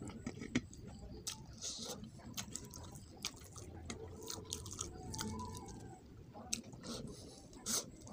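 Wet, open-mouthed chewing of rice and fish, with many short sharp mouth clicks and smacks and the soft squish of rice being mixed by hand.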